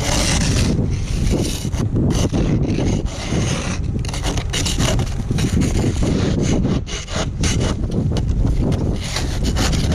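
Plastic ice scraper scraping thick ice off a car in quick, repeated rough strokes.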